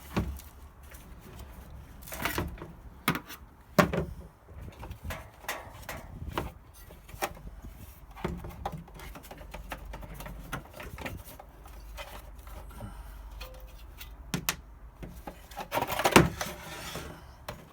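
Scattered clicks and knocks of tools and heater parts being handled during dismantling, with a few louder knocks, about 2, 3, 4 and 16 seconds in. Low wind rumble runs underneath.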